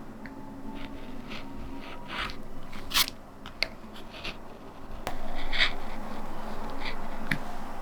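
A lino cutter carving into a linoleum block: a series of short, irregular scraping cuts, with a sharp click about three seconds in and a longer, louder run of cutting from about five seconds.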